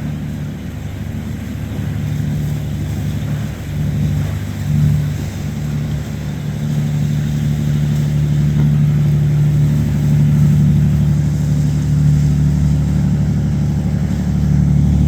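Low, steady engine drone of a boat motoring through the inlet, growing gradually louder as it comes closer.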